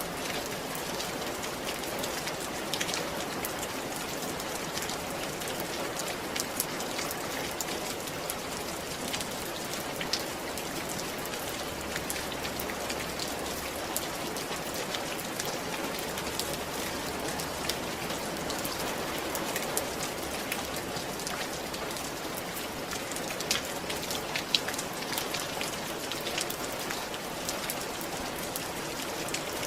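Steady rain falling on a roof: an even hiss with many individual drops ticking sharply on the surface.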